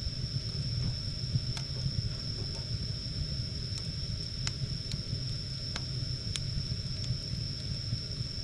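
Firewood burning with a steady low rumble and hiss, and sharp crackling pops every second or so. A thin, steady high whine runs under it.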